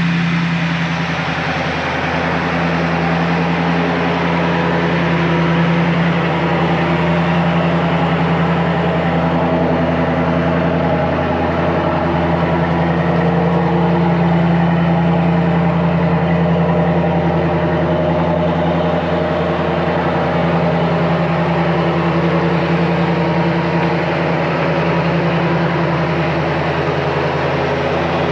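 Car engine idling steadily, with a low, even hum throughout.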